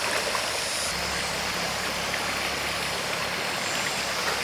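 Stream water flowing steadily with an even rushing hiss, and a low steady motor hum that comes in about a second in.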